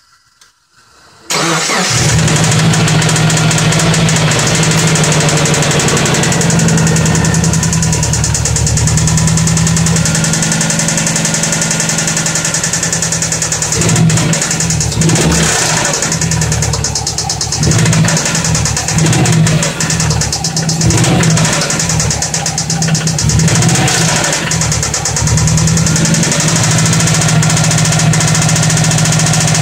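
2004 Subaru Forester XT's turbocharged 2.5-litre flat-four engine starting about a second in, then running. The sound turns uneven and changes repeatedly midway. The engine has a noise that the owner takes for a knock.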